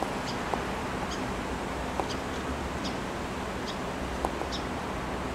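A small bird chirping, short high chirps repeated about every second, over a steady low hum and outdoor background noise.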